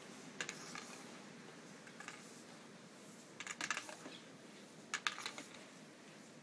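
Broom poking into a packed snow drift: short crunchy taps and scrapes in three quick clusters, about half a second in, around three and a half seconds, and around five seconds.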